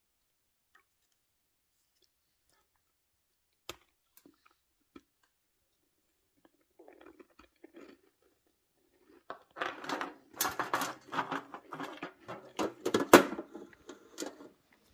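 Nearly quiet at first, with a single sharp click about four seconds in and some soft rustling a little later. From about nine seconds in, a person chews a crisp Nice biscuit, a close, dense run of crunching that fades out near the end.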